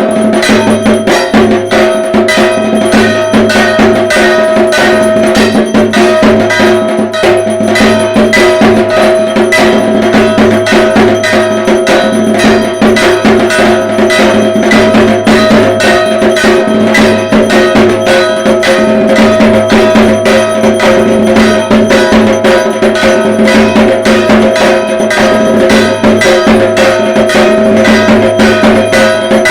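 Dhak, the Bengali barrel drum beaten with sticks, played in a fast unbroken rhythm, with steady metallic ringing under the drum strokes.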